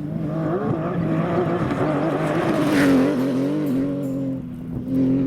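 Porsche rally car engine running hard under load, revs rising and falling as it is driven through a stage. It is loudest about three seconds in, dips briefly near the end, then picks up again.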